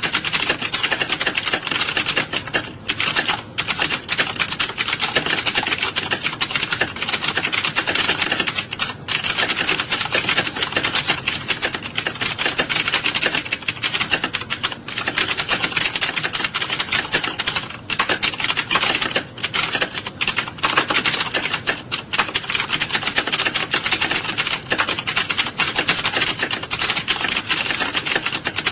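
A room full of people typing fast on computer keyboards at once: a dense, continuous clatter of key clicks, with a few brief lulls.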